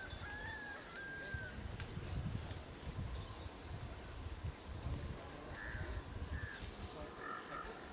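Birds calling: scattered short whistles and quick falling chirps, over a low, uneven rumble.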